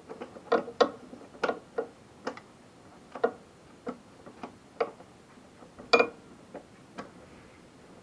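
Oil dripping from a lawnmower engine's drain into a pan, in irregular sharp plinks with the loudest about six seconds in.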